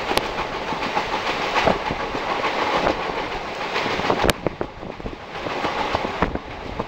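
A moving train's running noise: a steady rumble with irregular clatter and knocks. One sharp knock comes about four seconds in, and the noise is a little quieter after it.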